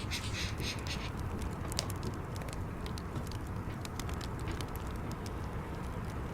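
Wood fire in a fireplace crackling, with scattered sharp pops over a steady low rumble and a brief higher hiss in the first second.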